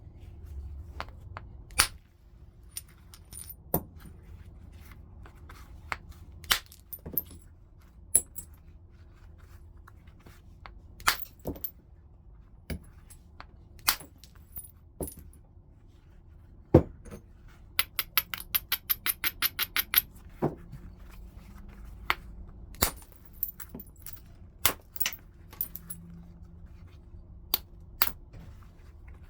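Stone being flintknapped: irregular sharp clicks and ticks as flakes are struck or pressed off the edge of the piece, with a quick run of about eight clicks a second near the middle.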